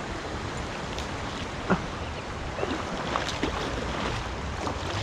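Creek water running steadily, with a few short sharp clicks and splashes on top, the loudest a little under two seconds in.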